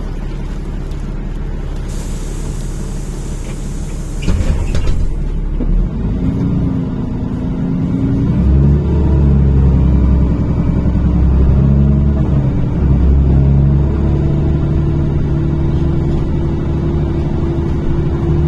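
NefAZ-5299 city bus heard from inside the cabin: the engine runs steadily, a burst of compressed-air hiss comes about two seconds in, then the engine pulls harder as the bus accelerates, its pitch rising and stepping through gear changes.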